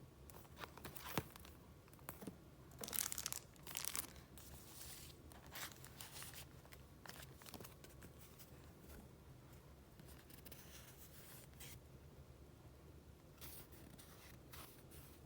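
Paper being handled and the pages of a file flipped through: soft rustling and crinkling, with a cluster of louder rustles in the first few seconds, quieter handling in the middle, and a few more rustles near the end.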